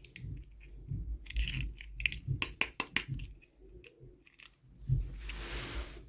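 Hands handling small plastic toy packaging: a run of sharp clicks and crinkles with soft bumps on the table, then a short rustle of plastic a little after five seconds in.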